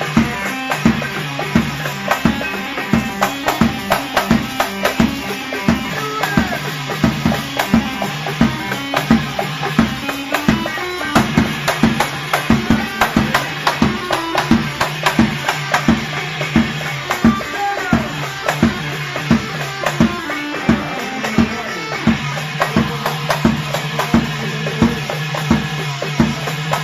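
An Iraqi popular (sha'bi) party band playing music with a steady, driving drum beat.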